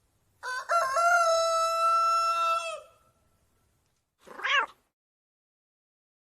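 A rooster crowing once: a few short opening notes and then one long held note, about two and a half seconds in all. About four seconds in comes a short cat meow that rises and falls in pitch.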